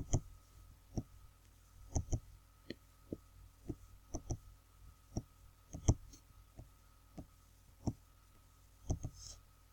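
Computer mouse clicking irregularly, sometimes in quick pairs like double-clicks, over a faint steady electrical hum.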